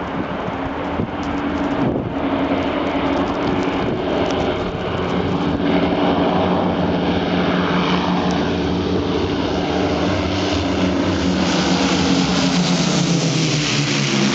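Four Rolls-Royce Merlin V12 piston engines of an Avro Lancaster bomber running at takeoff power. The sound grows louder as the aircraft draws near, and near the end the engine note falls in pitch as it passes.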